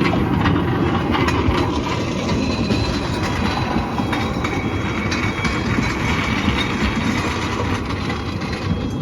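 Train passing over a level crossing: a steady rumble with the wheels clicking over the rail joints.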